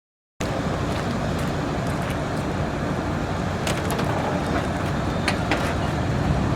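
Medium-duty truck's diesel engine running at a steady idle, starting abruptly about half a second in, with a few faint clicks over it.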